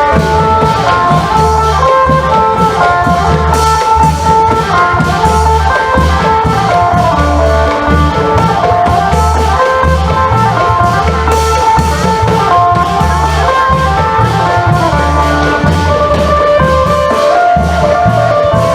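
Isan long-drum band music: a phin, the plucked Isan lute, plays a fast melody of short notes over a steady beat of klong yao long drums and percussion.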